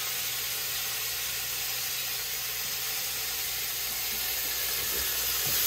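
Marinated oxtail pieces frying in hot oil in a stainless steel pot, a steady sizzle.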